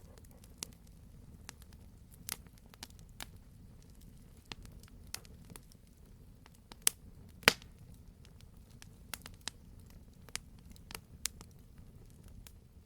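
Wood fire burning in a fireplace: a low steady rumble under irregular small crackles, with two sharper pops a little past the middle.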